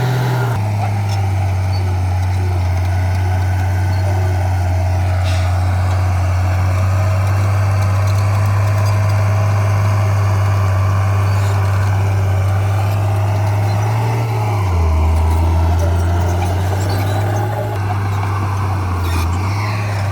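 Diesel engine of heavy earthmoving equipment running steadily under load. Its note drops lower for about three seconds some fifteen seconds in, then comes back up.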